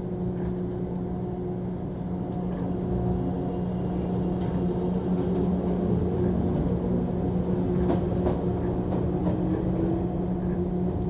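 Inside a running 185-series electric train: a steady low hum with running noise and scattered light clicks. Near the end, one tone rises in pitch.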